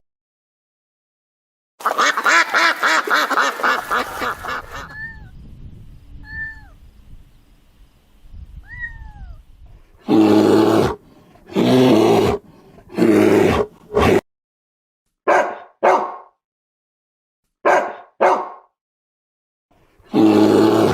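A sequence of different animal calls, one after another. A rapid pulsing call comes first, then three short chirping whistles that rise and fall. After that comes a run of loud short calls, several of them in quick pairs.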